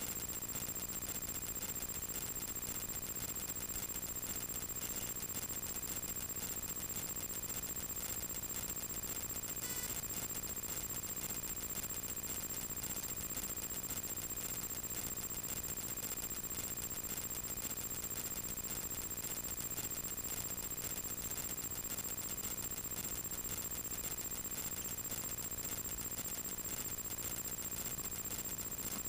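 Steady light-aircraft cockpit noise during taxi after landing: an even hum and hiss with a constant high-pitched whine that does not change.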